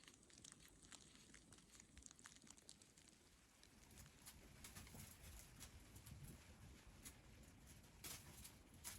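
Near silence with faint, scattered ticks and crackles, a little busier in the second half.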